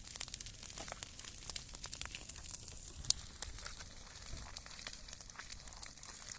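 Wood campfire crackling and popping irregularly over a faint hiss, with one sharper pop about three seconds in.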